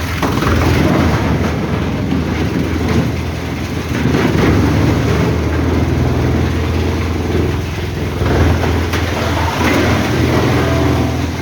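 Heavy machinery running steadily: a diesel engine's low hum with a rumbling, clattering layer over it, and a few short knocks.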